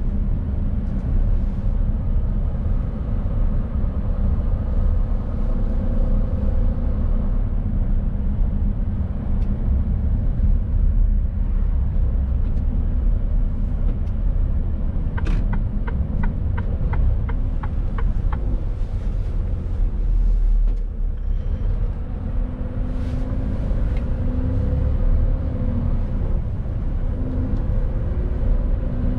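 Mercedes Actros truck running on the road under load, a steady low engine and road rumble. About halfway through, a short run of about eight regular ticks comes at roughly two and a half a second.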